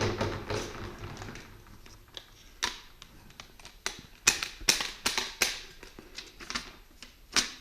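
Hard items being handled: a scraping rustle at the start, then a string of sharp clicks and knocks at uneven intervals.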